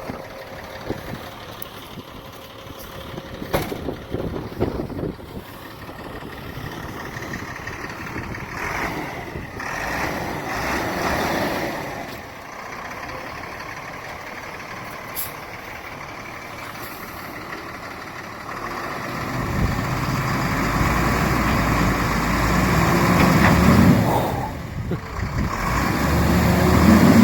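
Old Chevrolet pickup's engine running and being revved in surges, louder about two-thirds of the way through and again near the end, as the rear-wheel-drive truck tries to drive out of the ice and snow it is frozen into.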